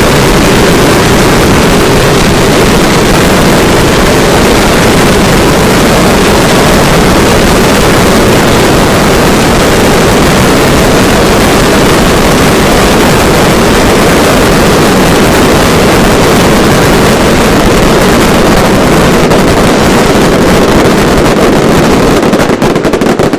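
A fireworks barrage so dense that the bangs merge into one continuous, very loud roar that overloads the recording; near the end it breaks up into separate bangs and stops.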